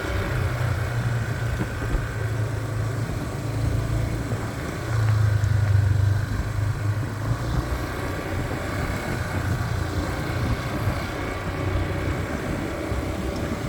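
Motorbike engine running steadily while riding, a low hum that swells louder about five seconds in, under rough wind and road noise.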